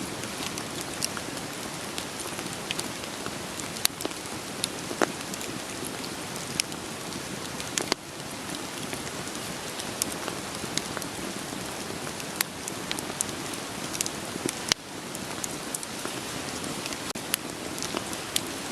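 Steady rain with scattered sharp pops and crackles of burning firewood on top.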